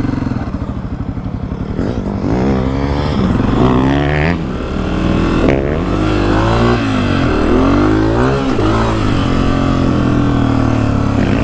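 Honda CRF250F single-cylinder four-stroke dirt bike engine under way: a low steady putter for the first couple of seconds, then it revs up and down repeatedly as the bike accelerates and shifts, louder from about two seconds in.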